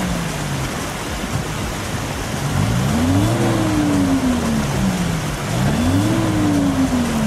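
Opel Frontera's engine revving up and easing off twice while the SUV is stuck in a stream, over a steady rush of churned, splashing water.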